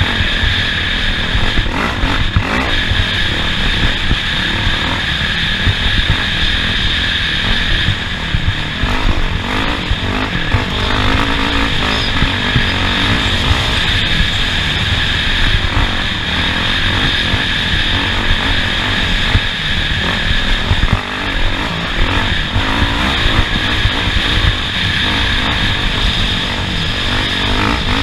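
Off-road race vehicle driving a dirt track: loud, steady engine noise over a continuous rough rumble from the ground, with no let-up.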